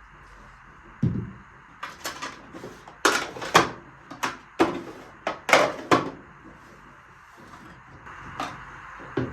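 A low thud about a second in, then a run of sharp knocks and clatters over the next few seconds, typical of household things being handled, with two more knocks near the end.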